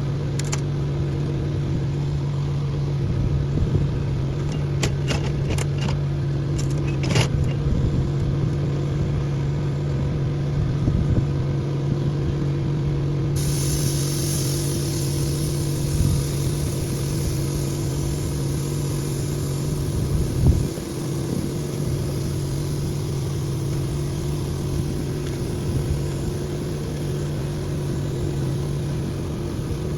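An engine running steadily with a constant low hum, with a few sharp clicks about five to seven seconds in and a single knock about twenty seconds in.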